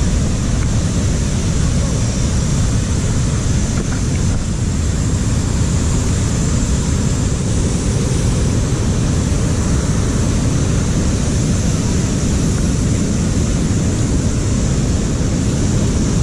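Steady wind rush and road noise on the microphone of a moving motorcycle.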